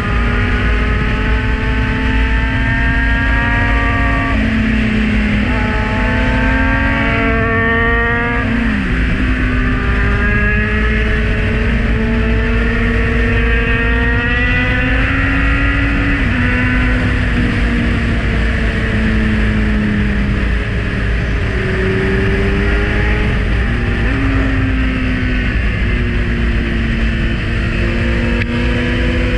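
Kawasaki Z900's inline-four engine heard from on board while riding hard, its note holding, gliding and stepping up and down several times with throttle and gear changes, over a steady rush of wind on the microphone.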